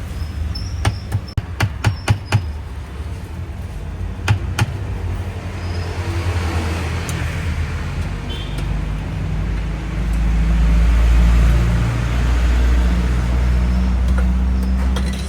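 Street traffic with a motor vehicle engine running, a few sharp clicks in the first few seconds, and a louder low rumble from about ten seconds in.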